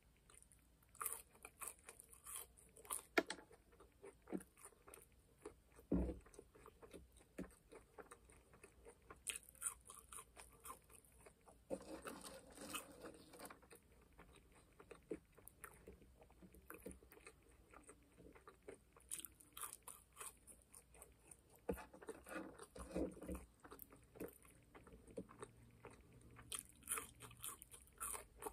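Close-up chewing and mouth sounds of a person eating McDonald's French fries, with irregular short clicks and a few louder bites.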